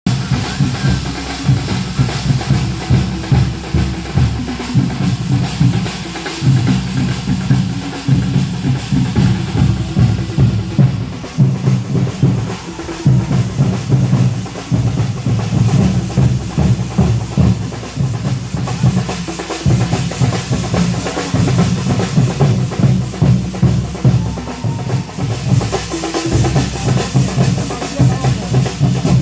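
Loud, continuous fast drumming with deep, booming drum strokes: a percussion ensemble playing without a break.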